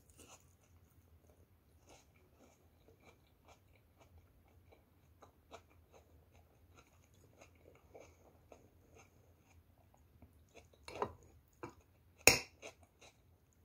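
Close-miked chewing and small wet mouth clicks of someone eating a battered fried snack. Near the end a louder sharp knock comes as a metal spoon goes into the rice bowl.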